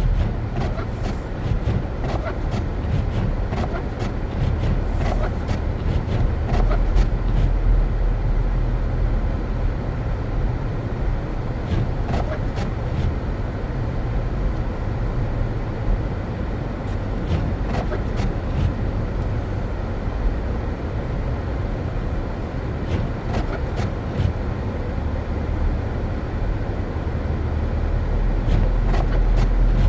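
A car driving on a snow-covered road: steady low rumble of engine and tyres, with scattered light clicks.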